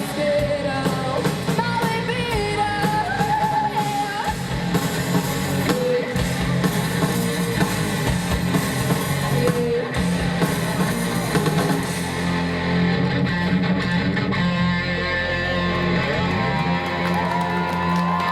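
Live rock band playing: electric guitar, bass and drums with a singer's voice over them in the first few seconds. About twelve seconds in, the bright high cymbal wash drops away.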